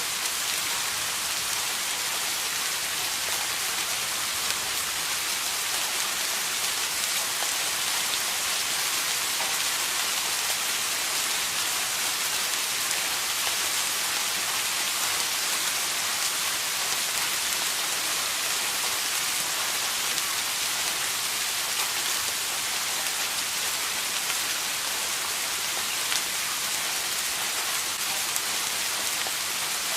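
Steady rain falling, an even hiss with faint patter of individual drops throughout.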